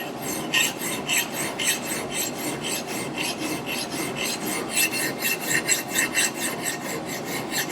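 Small vintage Franklin hand file rasping across the steel bit of an axe in quick, even strokes, about three or four a second, as it files the edge sharp. The file is cutting well.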